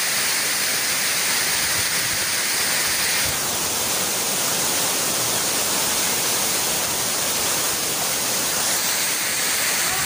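Waterfall: water pouring in many streams down a rocky cliff face, a steady rush and splash of falling water.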